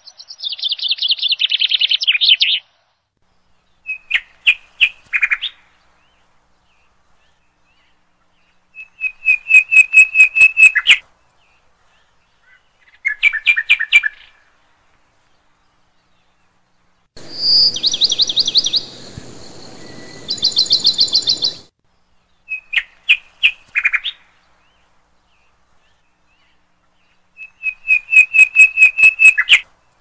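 Songbird chirping: seven short phrases of quick, rapidly repeated notes, each one to two seconds long except a longer one about two thirds through, separated by dead silence. It is a recording laid over as a soundtrack.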